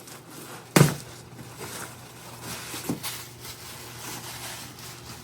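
A single loud thump about a second in, then a few faint rustles and two light knocks around three seconds, as gifts are handled and unwrapped.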